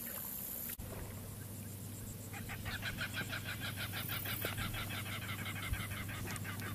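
Birds calling from the marsh grass: a fast, even run of short chattering notes that starts a couple of seconds in and keeps going.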